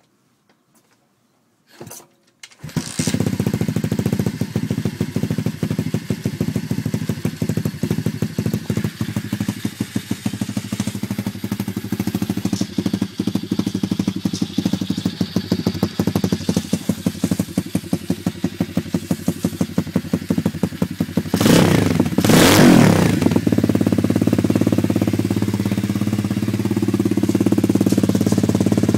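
125cc pit bike engine catching a few seconds in and running with an even pulsing idle, with one short rev about twenty-two seconds in before settling back to idle.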